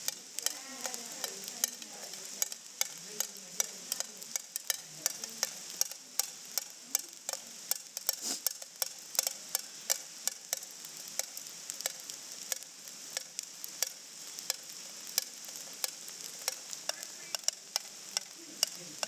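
Rainwater dripping into a collecting container: sharp, irregular drip ticks, several a second, over a steady hiss of rain.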